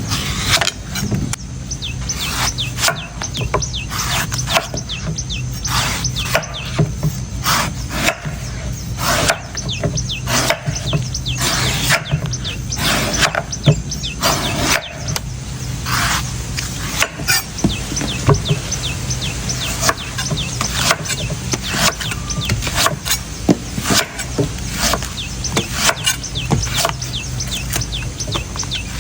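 A knife chopping into coconuts: quick, irregular sharp strikes, several a second, that go on without a break.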